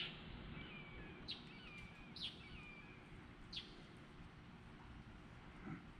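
Birds chirping: four short, sharp, falling chirps in the first four seconds, with a faint warbling song between them, over a faint steady low hum.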